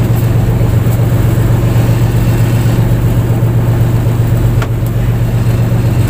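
Fishing boat's engine running steadily, a loud, even low hum.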